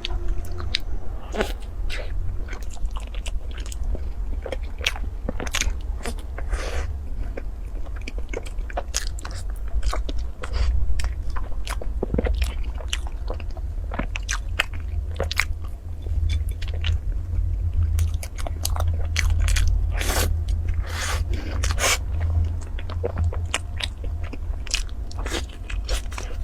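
A person chewing and biting food close to the microphone: a run of irregular wet smacks and crunches over a low steady rumble.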